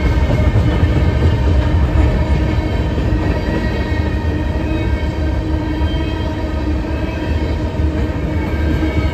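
Freight train of covered hopper cars rolling past at a level crossing: a steady, loud rumble of steel wheels on rail that keeps on without a break.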